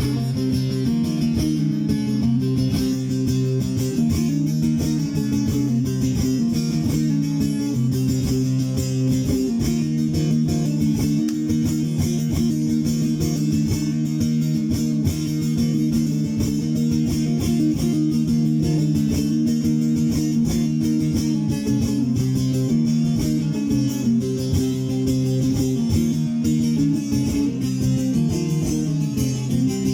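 Bağlama (saz) playing an instrumental semah melody, a steady run of plucked notes with no singing.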